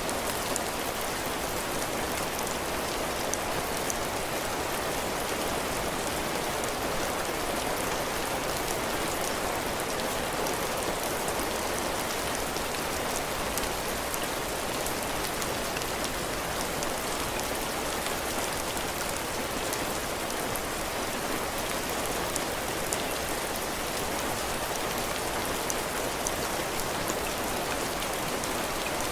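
Heavy rain falling steadily, drops pattering on a roof and the ground, with fine drop ticks through a constant rush.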